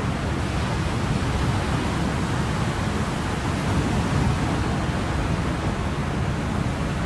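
Ocean surf: a steady, even rush of waves with no single breaker standing out.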